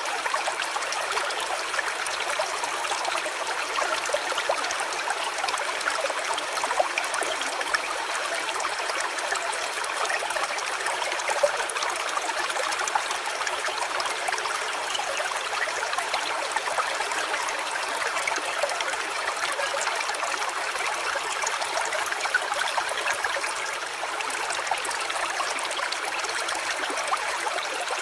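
Small stream of water trickling and burbling steadily, a continuous hiss flecked with tiny splashes.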